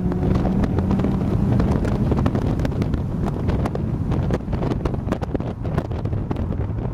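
Turbocharged car engine (a TD04-13T turbo set-up) running at speed, heard from inside the cabin. Its note fades after about two seconds and settles to a lower steady drone. Heavy wind buffeting on the microphone runs throughout.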